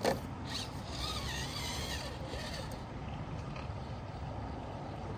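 RC rock crawler on a trail: a sharp knock at the start, then a faint wavering motor whine over a steady low rumble for the first couple of seconds.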